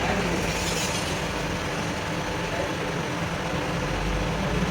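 Steady low mechanical rumble with a continuous hum.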